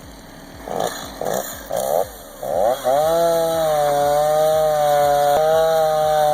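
Chainsaw engine blipped in four short bursts about half a second apart, then revved up and held at a steady high speed.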